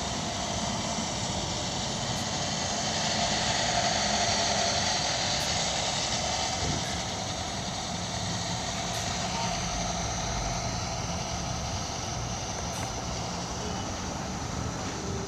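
Steady vehicle engine noise running without clear revs, swelling slightly a few seconds in.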